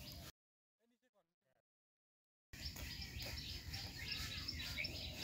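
Birds chirping over steady outdoor background noise, with faint voices. The sound drops out almost completely for about two seconds near the start.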